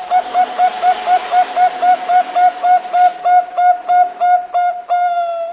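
Zebra dove (perkutut bangkok) calling: a rapid run of short cooing notes, about four or five a second, ending in one longer drawn-out note near the end, over a steady hiss.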